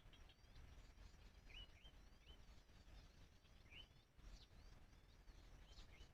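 Faint short chirps and hooked call notes of small birds, a few scattered groups, over a low steady rumble.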